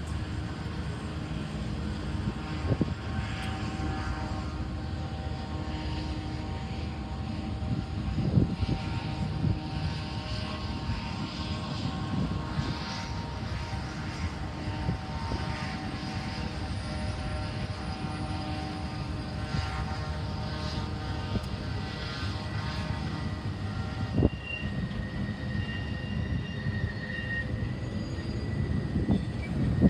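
BNSF freight train's GE diesel locomotives running with a steady low drone, with a few short clanks. A thin, steady high squeal sets in near the end.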